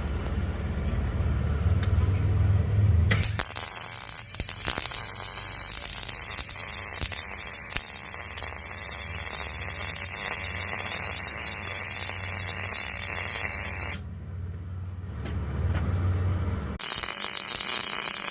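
Electric arc welder: a low hum, then the welding arc hissing and crackling from about three seconds in. The arc breaks off for a few seconds near the end and then strikes again.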